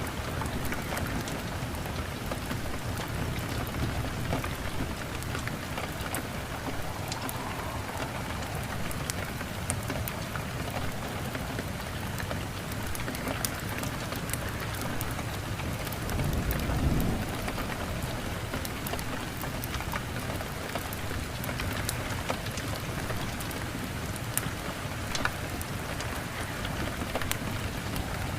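Steady heavy rain with scattered sharp crackles, and a brief low rumble of thunder about 17 seconds in.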